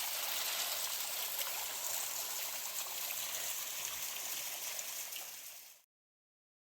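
Mountain creek water rushing and splashing steadily, a full hiss with no pauses. It fades away and cuts off to silence near the end.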